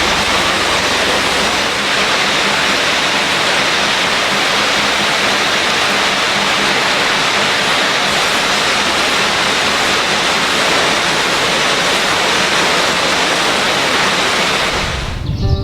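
Steady, loud rushing noise with no rhythm or tone, falling away about half a second before the end as music comes in.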